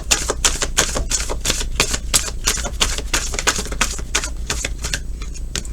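A tarot deck being shuffled by hand: a quick run of cards snapping and slapping against each other, several a second, easing off near the end.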